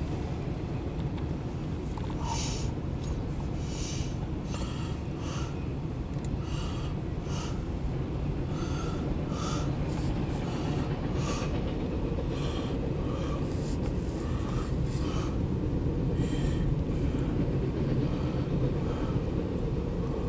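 Empty autorack cars of a freight train rolling past: a steady rumble with repeated irregular clicks and knocks from the wheels on the rails.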